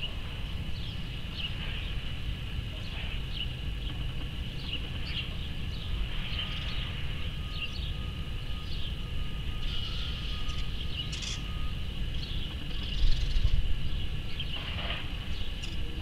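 Birds chirping in short scattered calls over a steady low outdoor rumble and a constant high-pitched hum; the rumble swells louder about thirteen seconds in.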